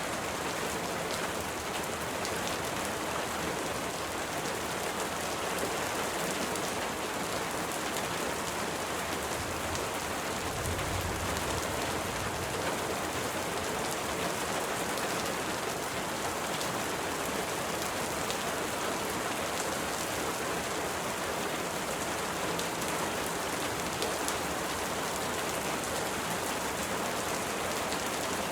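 Steady rain falling against window glass, an even hiss peppered with many small drop ticks. A brief low rumble about ten seconds in.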